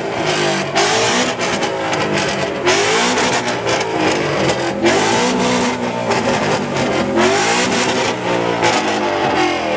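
Car engine revved hard over and over, pitch climbing and dropping about every second or two, with sharp exhaust pops and crackles between the revs.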